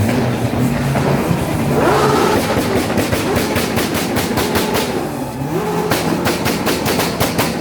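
A modified car engine revving hard, its pitch rising about two seconds in and again near the end. Each rise is followed by a rapid string of sharp exhaust pops and bangs, the crackle of a 2-step rev limiter.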